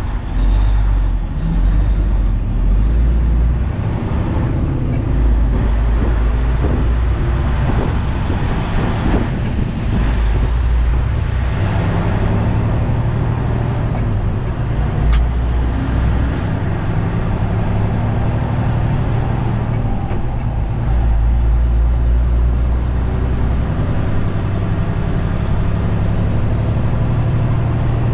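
Detroit DD15 diesel engine of a 2021 Western Star 4900 semi truck running under way, a steady low engine drone that swells a few times, heard through its stock DPF exhaust rather than straight pipes.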